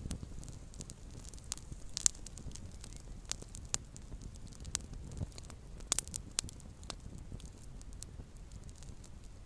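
Small wood campfire crackling: irregular sharp pops and snaps over a low rumble of flames. The loudest pop comes about two seconds in, and a quick cluster of pops comes about six seconds in.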